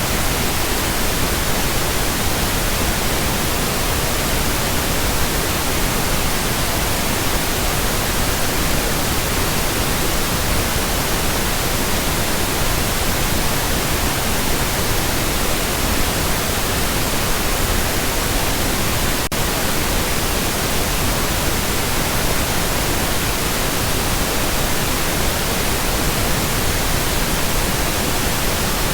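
Steady pink noise: an even, unchanging hiss that spreads across all pitches, with a momentary dropout about two-thirds of the way through.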